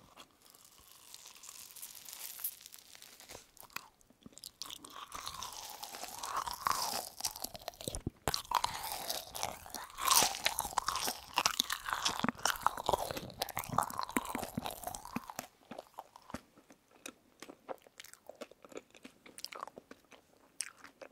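Close-miked chewing of a berry jelly candy studded with sugar granules, with crunching granules and sticky, wet mouth sounds. The chewing is busiest in the middle and turns sparser and quieter over the last few seconds.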